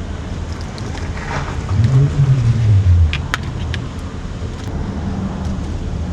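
A motor vehicle's engine rumbling, swelling louder with a pitch that rises and then falls a couple of seconds in, as if passing by. A few sharp clicks sound over it.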